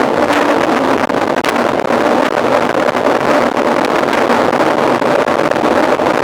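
Steady rush of wind and riding noise on a mountain bike rider's camera microphone during a race.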